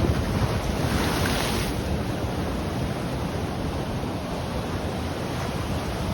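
Ocean surf washing on the shore, with wind buffeting the microphone. A brighter hiss of breaking water swells briefly about a second in.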